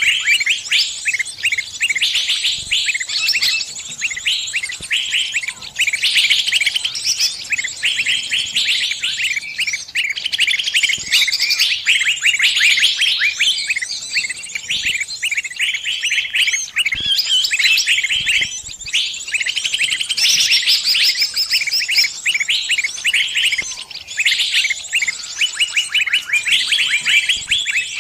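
Small bird's distress calls: rapid, incessant high-pitched chirping and squeaking, the cries of a trapped (pinched) bird calling its flock for help. The calls run densely with only brief dips.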